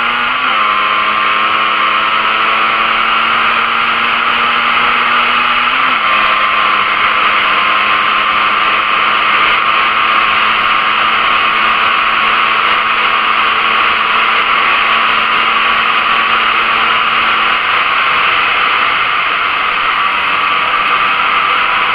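Yamaha DT 125 R two-stroke single-cylinder engine, fitted with a Doma Racing aftermarket exhaust, running hard at high revs while riding, with a strong rushing noise over it. The engine note holds a steady pitch, with brief rises about half a second in and again around six seconds in, and becomes less distinct near the end.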